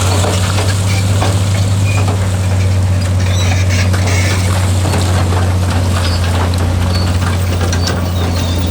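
Diesel engine of heavy earthmoving equipment running steadily with a deep, even drone, with scattered light clicks and knocks over it.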